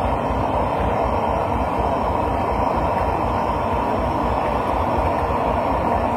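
A pressurised blowlamp burning steadily with a loud, even roar. It is heating the glow head of a Lanz Bulldog's single-cylinder hot-bulb engine to ignition temperature before starting.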